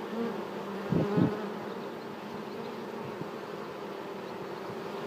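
Honeybees buzzing steadily around the hive, with a louder buzz rising and falling in pitch about a second in, as of a bee flying close past the microphone.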